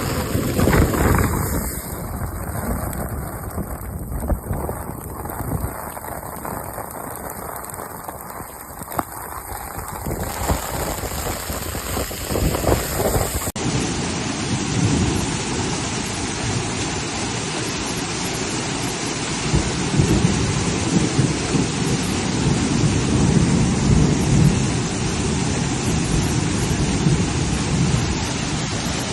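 Heavy rain and hail pelting down in a storm, a dense, steady noise with a rumble underneath. About halfway through it cuts to another recording of the same downpour.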